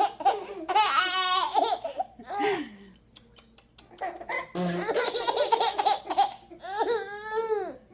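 Babies laughing in bursts, with high, wavering giggles, a pause about three seconds in, then more laughter.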